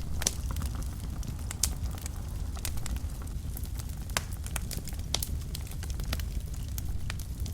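Wood fire in a fireplace burning with a steady low rumble and frequent sharp crackles and pops.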